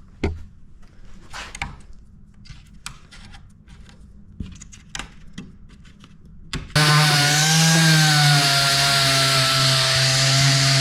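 Scattered sharp snaps and clicks of wooden toothpick plugs being broken off in a wooden door panel. About two-thirds of the way through, an electric power tool starts suddenly and runs steadily against the wood, taking the stubs down flush. It winds down in pitch as it is switched off at the end.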